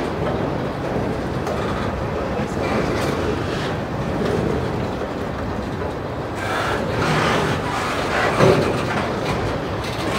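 Freight train of boxcars, gondolas and autoracks rolling past, with a steady rumble and clatter of wheels on the rails and a louder knock about eight seconds in.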